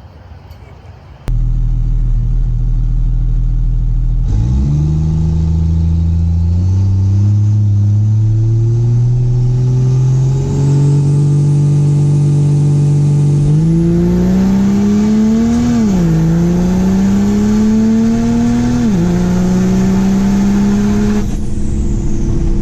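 Cummins diesel drag race truck's engine coming up loud, then pulling hard down the strip. The engine pitch climbs in each gear and drops sharply at three upshifts, then eases off near the end.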